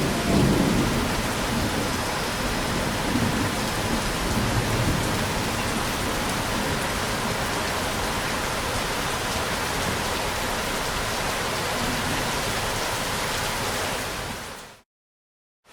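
Steady rain, with low thunder rumbling during the first few seconds. Near the end the rain fades out to a moment of complete silence, then fades back in.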